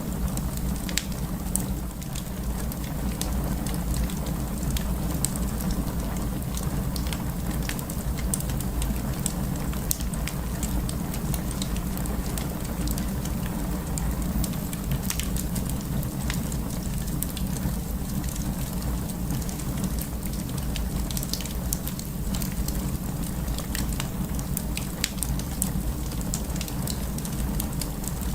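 Wood fire burning, with a steady low rumble and frequent scattered sharp crackles and pops.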